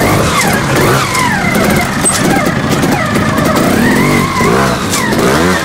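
Trial motorcycle engine revving: the throttle is blipped over and over, the pitch swinging up and down, with quick sharp revs near the end.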